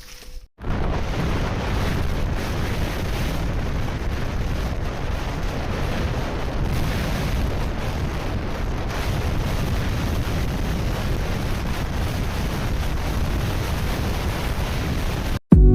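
Steady wind roar and buffeting on the microphone of a camera on a moving motorcycle, starting abruptly about half a second in and cutting off just before the end.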